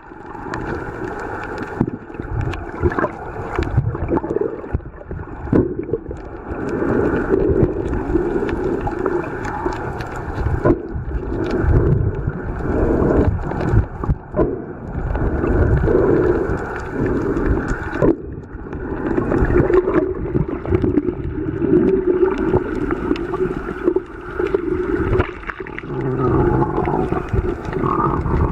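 Muffled gurgling and sloshing of water around a camera held underwater while snorkeling, with uneven surges and small bubbly clicks.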